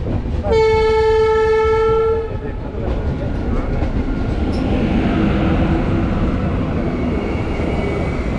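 Train horn sounding one steady blast of about a second and a half, starting about half a second in, over the continuous rumble of a moving train on the track.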